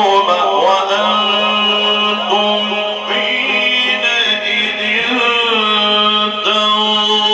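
A man's voice reciting the Quran in the melodic mujawwad style, drawing out long, ornamented melismatic phrases. A steady low hum runs beneath it.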